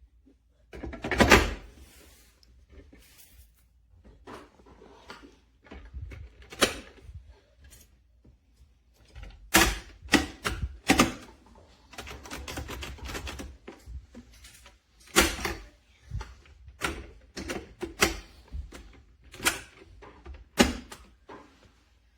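Irregular clicks, knocks and clatter of hard objects being handled, about twenty separate strikes of varying loudness.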